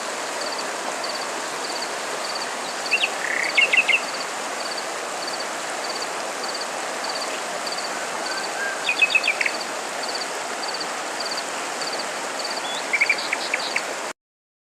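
Outdoor nature ambience: an insect chirps steadily at about two chirps a second over a constant hiss. A bird sings a short trilled phrase three times. The sound cuts off abruptly just before the end.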